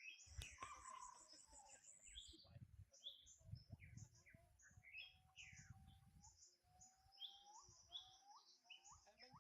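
Small birds chirping in many quick, high, short notes, over a low rumble through the first six seconds. In the second half come a few longer, level calls that rise sharply at the end.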